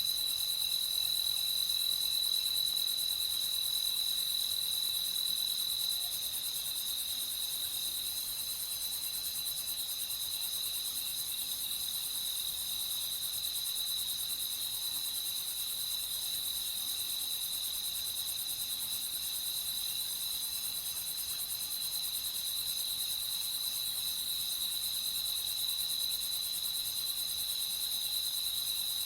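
Crickets chirping in a steady, unbroken night chorus, a high-pitched continuous sound.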